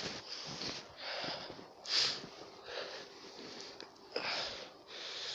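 Heavy, hard breathing of a man worn out from trudging through deep snow, a loud breath about every second, the loudest about two seconds in.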